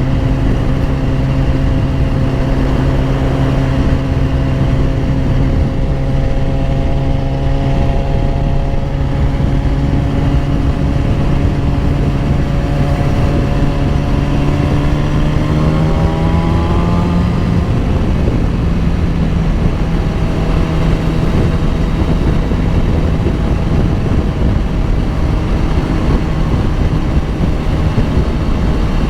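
BMW S1000RR's inline-four engine heard from the rider's position at a steady cruise, with wind rushing over the microphone. A little past halfway the engine note rises as the bike accelerates, then drops suddenly and settles into a steady cruise again.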